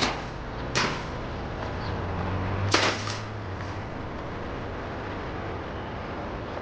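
Three sharp knocks in the first three seconds, the last the loudest, over a low steady hum.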